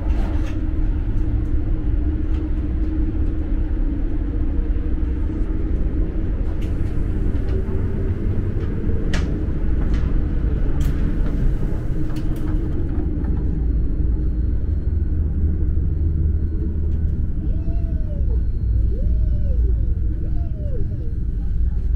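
Steady low rumble of a DB ICE 3 high-speed train running, heard inside the passenger cabin, with scattered clicks in the first half. Near the end a few short, high sounds rise and fall.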